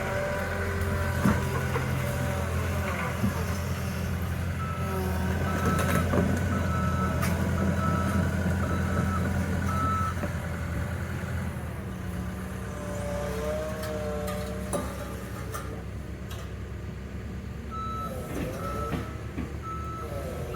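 Cat 313 excavator's diesel engine running hard, dropping to a lower drone about halfway through, with a machine's reversing alarm beeping at a steady pace for several seconds about a quarter in and again near the end. A few sharp metal knocks come through.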